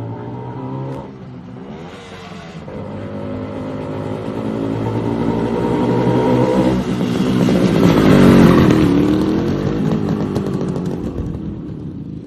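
Motorcycle engine running, its pitch shifting a few times as it goes, growing louder to a peak about eight seconds in and then fading as the bike moves away.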